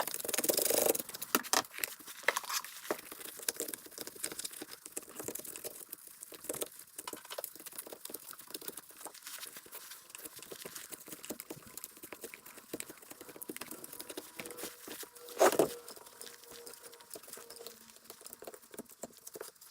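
Irregular small scratches, taps and rubbing as sticky concrete dust is scraped and wiped out of a concrete saw's air filter box, with one louder bump about fifteen seconds in.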